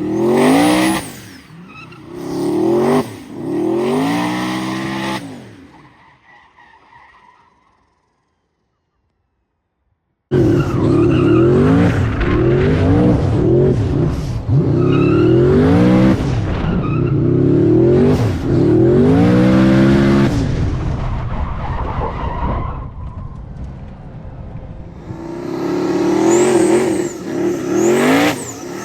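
Turbocharged V8 race car doing a burnout: the engine is revved hard over and over while the rear tyres spin and squeal. The sound fades and cuts out for about two seconds early on, then comes back at full volume, eases off for a few seconds and rises again near the end.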